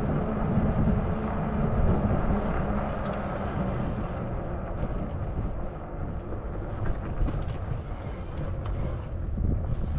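Zota Zephyr fat-tire e-bike rolling along, a steady rumble of tyres and wind on the handlebar camera's microphone, with a low hum during the first couple of seconds.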